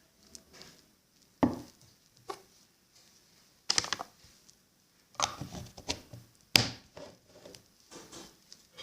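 Irregular handling noises: a handful of sharp knocks and clatters, with a quick run of them past the middle.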